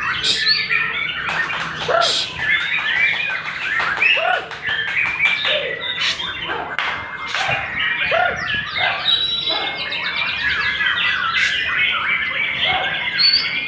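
White-rumped shama (murai batu) in full song: an unbroken stream of fast, varied whistles, sharp chips and chattering phrases.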